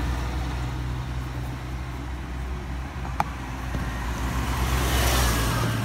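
A vehicle engine idling with a steady low hum, over a background of street traffic noise that swells near the end. A single sharp click about three seconds in.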